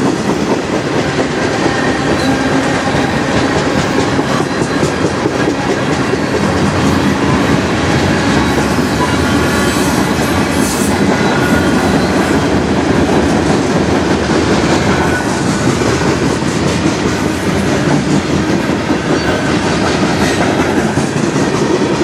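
Freight cars of a manifest train (boxcar, covered hoppers, centerbeam flatcar) rolling past close by. Steady, loud noise of steel wheels running on the rails.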